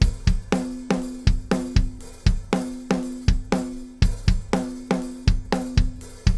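Acoustic drum kit playing a steady groove of kick and snare hits with cymbals, the snare's ring sustaining after its strokes. The kit is compressed by a 500-series FET compressor set to medium attack and release times.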